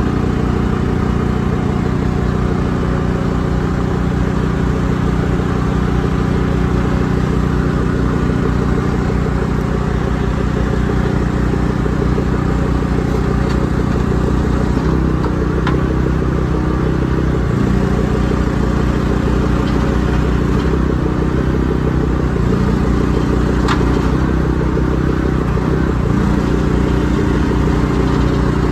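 A large truck engine running steadily, its speed shifting partway through, with a few faint clanks.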